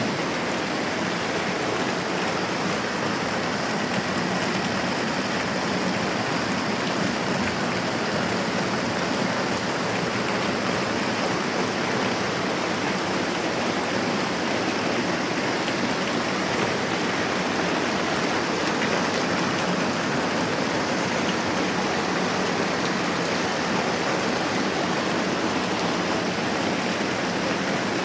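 Moderate rain falling steadily, a dense, even hiss of drops with no let-up or change.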